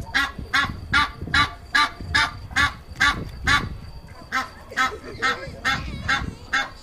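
Waterfowl honking in a fast, regular series of short calls, about two to three a second, with a brief lull around the middle.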